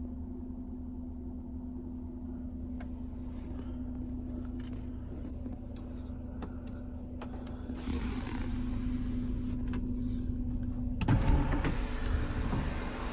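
Electric sunroof motor of a 2014 Mercedes-Benz C250 running, over the steady hum of the car idling after a cold start. About eleven seconds in there is a louder burst of knocks and rushing noise.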